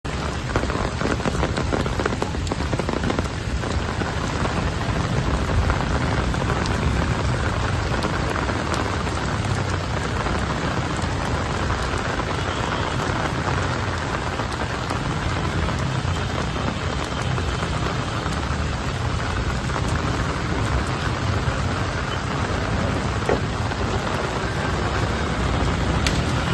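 Heavy storm rain falling steadily, a dense even hiss with no break.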